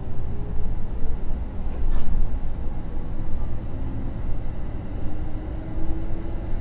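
Running sound heard inside a Kintetsu 2050 series electric train: a steady low rumble of wheels on rail, with a thin motor whine that rises slowly in pitch as the train gathers speed. There is one sharp click about two seconds in.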